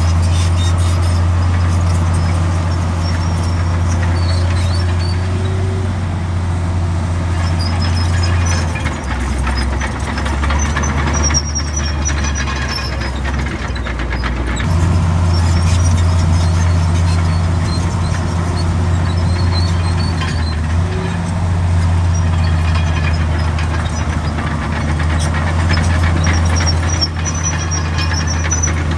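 Komatsu D65 bulldozer's diesel engine running under load with a steady low drone that drops and shifts for several seconds about a third of the way in, then steadies again. Intermittent high squeals ring out over it.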